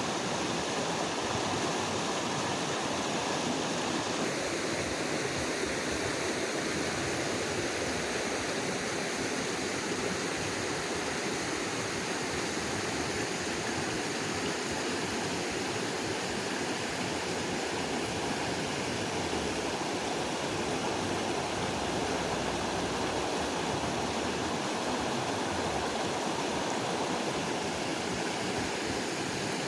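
Creek water running steadily, a constant rush of flowing water.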